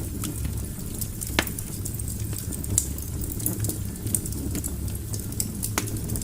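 Wood fire crackling in a fireplace: a steady low rumble of burning logs with scattered small snaps and a few sharper pops, the loudest about a second and a half in and another near the end.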